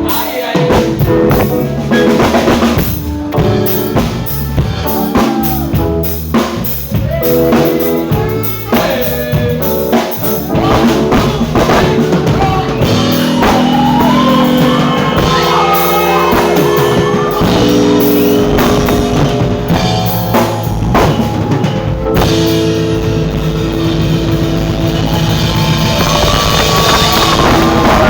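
A live band playing with a drum kit, bass and keyboard chords. Near the end the drumming stops, leaving held chords.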